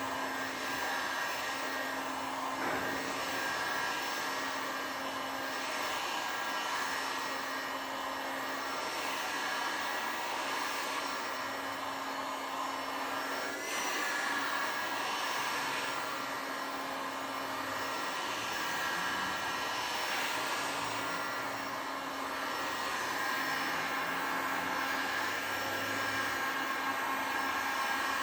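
Electric heat gun blowing steadily, its fan and motor giving a constant hum, heating hot-melt contact glue on an inflatable boat's rubber rub strip.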